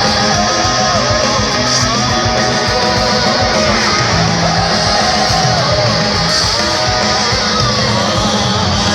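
Live rock band playing loud, with distorted electric guitar leading over bass and drums, heard through a phone-style recording of the concert.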